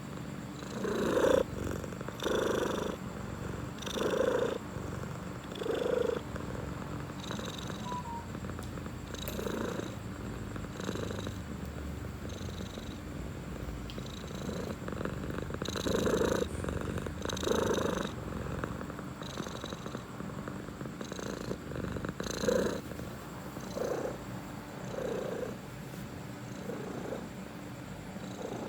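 Domestic cat purring steadily and close up, with louder swells every second and a half to two seconds as it breathes in and out.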